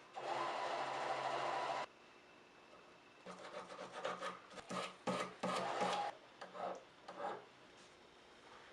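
Rasping strokes of a hand tool against a workpiece: one long stroke of almost two seconds, then after a pause a run of about ten shorter strokes.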